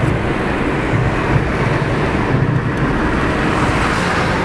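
Motor vehicle engine and road noise: a steady low rumble.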